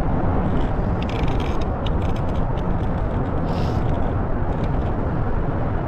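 Steady low rumbling background noise on an open boat, with scattered light clicks and taps.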